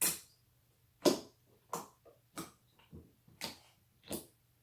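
Jiggly slime clicking as it is pressed and folded with bent fingers: a series of about seven sharp wet pops, roughly one every half second to second. The slime is made from white glue and shaving foam.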